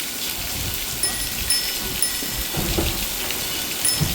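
Rain falling steadily, an even hiss, with short high chirps repeating over it from about a second in and a couple of low rumbles.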